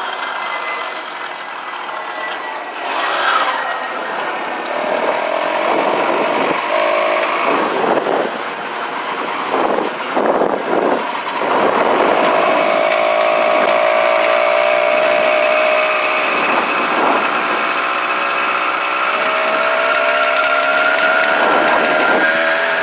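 Small gasoline engine of a motorized bicycle running under way, its pitch rising and falling as the throttle changes, dipping briefly about ten seconds in and then held higher.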